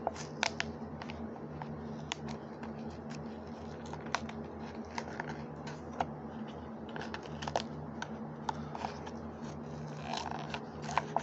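Hot Wheels blister pack being opened by hand: irregular crackles and clicks of the plastic blister and cardboard card.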